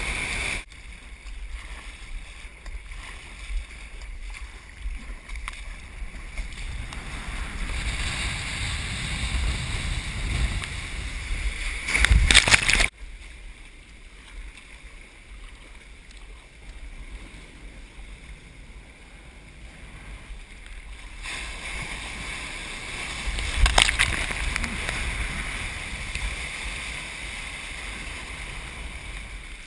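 Ocean surf and water rushing around a surf kayak, with low wind rumble on the microphone. Two louder surges come through, about halfway in and again near the end.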